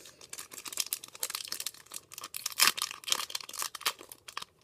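Foil Pokémon card booster pack wrapper being torn open and crinkled by hand: a dense run of crackles and rips, with a few louder tears about halfway through.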